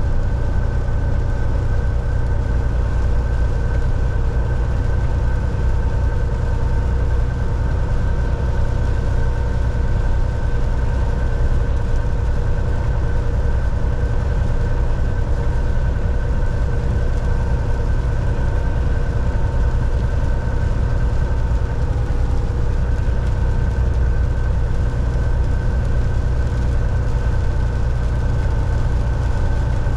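Volvo VNL 760 semi truck heard from inside the cab while driving: a steady, loud low engine and road rumble with a few faint steady tones above it and no change in speed.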